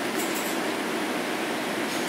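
Steady rolling noise inside a Metro-North M7 electric multiple unit car running along the track, with two faint high ticks within the first half second.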